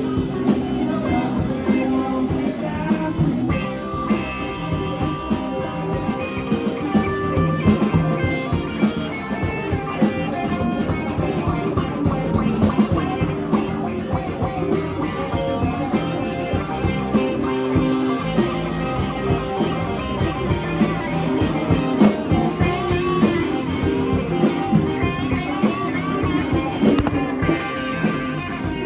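Live rock band playing an instrumental passage: electric guitar over a drum kit, with sustained guitar notes and a steady beat.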